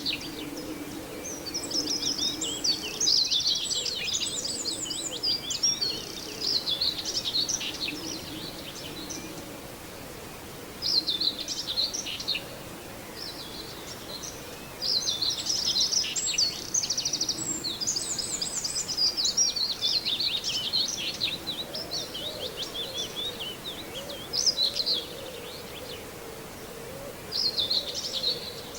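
Common whitethroat singing short, fast, scratchy warbling phrases again and again, some runs lasting several seconds, with brief pauses between, over a low steady background hum.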